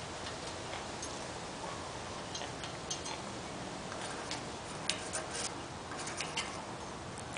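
Faint, scattered small clicks and taps from parrots moving about at close range, over a steady low hiss.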